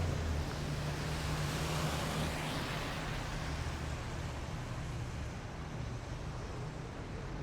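Low, steady engine rumble of passing military vehicles slowly fading away, over a hiss of street noise.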